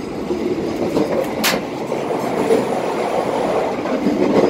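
Passenger train running on the rails: a steady rumble of wheels and carriage, with one sharp metallic clack about a second and a half in.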